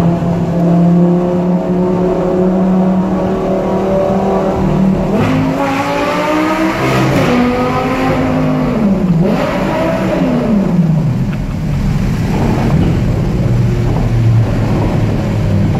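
Lamborghini Gallardo LP570's V10 engine running through an open, bypassed exhaust in a tunnel, heard from inside the cabin. It holds a steady note at first; from about five seconds in the revs rise and fall a few times, then it settles to a lower steady drone.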